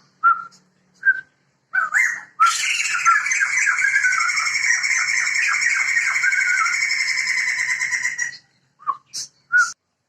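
Sumatran laughingthrushes (Garrulax bicolor) calling: a few short whistled notes, then a loud, continuous cackling, laughing chorus lasting about six seconds, then a few more short notes near the end.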